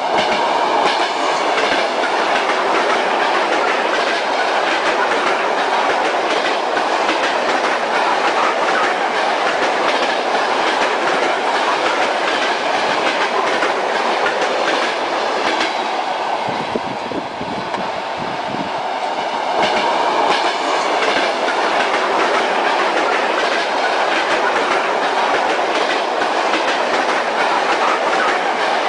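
Railway carriage wheels clattering over rail joints, over the steady rumble and rush of a moving train. For a few seconds past the middle the hiss thins out and the sound drops a little, then comes back to full strength.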